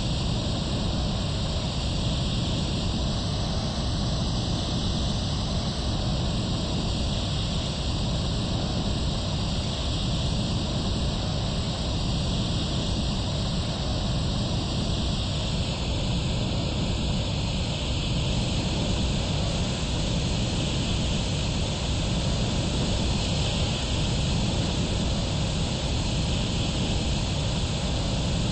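Airbus A320 jet engines and rushing air, a steady unbroken noise with a heavy low rumble and a hiss on top.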